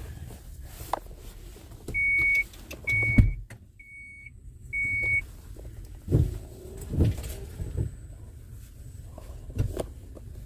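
A car's warning chime beeping four times, about once a second, as a door stands open. Thumps and rustling follow, with a loud thump just after the second beep, as someone gets into the car.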